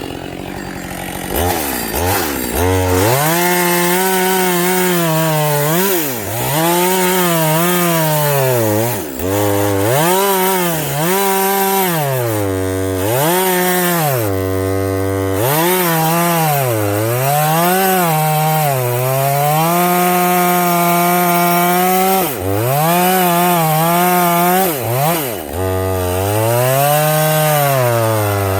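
Husqvarna 562 XP two-stroke chainsaw cutting wood with a dull chain. It revs up about a second and a half in, then its pitch sags under load and recovers again and again, every second or two.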